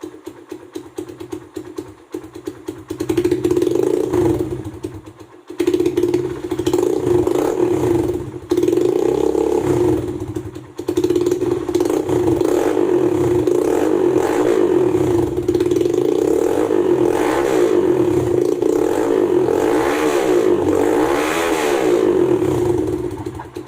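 Kawasaki Fury 125 RR motorcycle engine breathing through an aftermarket titanium SC Project-style exhaust with a big elbow header. After a few quieter seconds it is revved hard and repeatedly, the pitch climbing and falling in blips, with short drops in throttle a few times. It settles down near the end.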